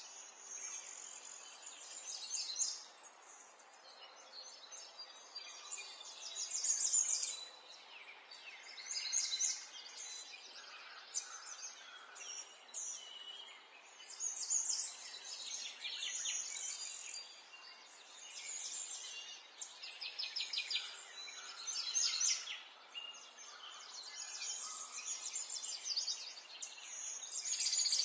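A chorus of several songbirds singing and chirping at once, with rapid trills and short calls overlapping, swelling and fading every few seconds over a faint background hiss.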